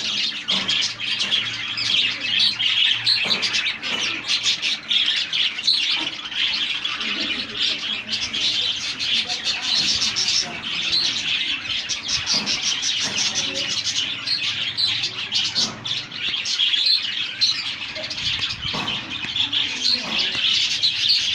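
A flock of budgerigars chattering and chirping together, many short overlapping warbles and tweets without a break.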